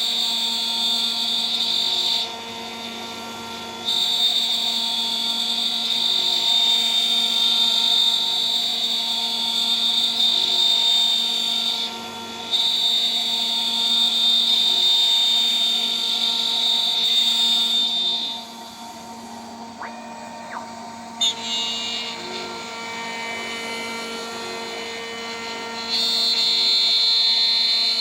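CNC router spindle running steadily at about 14000 RPM with a high-pitched whine, its 3 mm three-flute end mill cutting with a loud, shrill sound. The cutting sound stops briefly twice and then for several seconds from a little past the middle, with a single click, while the spindle keeps running; cutting resumes near the end.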